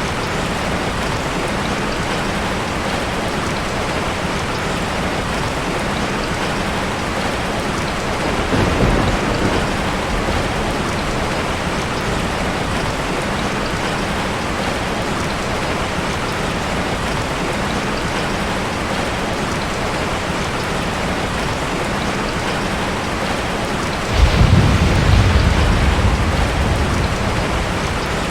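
Heavy rain falling steadily. A short low rumble of thunder comes about nine seconds in, and near the end a louder thunderclap breaks in suddenly and rumbles away.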